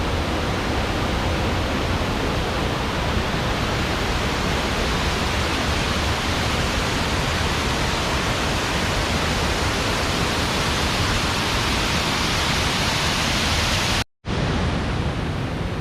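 Waterfall: a steady, dense rush of falling water. It cuts out abruptly for a moment about fourteen seconds in and returns a little softer.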